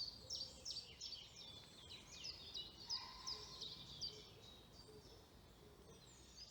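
Faint songbird chorus: several small birds chirping and singing in quick, high, down-sweeping notes, thinning out over the last second or two.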